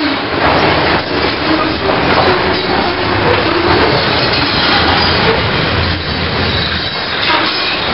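Freight cars rolling past close by: a loud, steady noise of steel wheels running on the rails, with faint squeals here and there.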